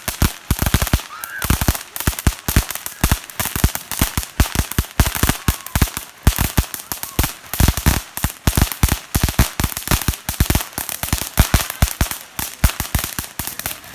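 Firecrackers going off in rapid succession: a long, unbroken run of sharp bangs, several a second at an uneven rhythm.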